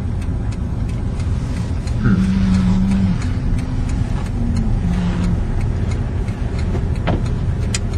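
Car engine and road rumble heard from inside the moving car's cabin. The engine note steps up and shifts for a few seconds in the middle, and a couple of sharp clicks come near the end.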